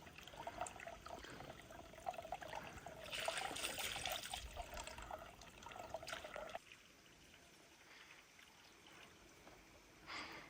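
Water trickling and pouring, with a few louder gushes, breaking off abruptly about two-thirds of the way through to a quieter background.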